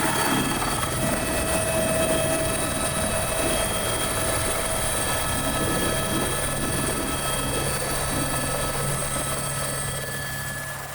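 Helicopter running steadily: a steady engine whine over rotor and airflow noise, fading out near the end.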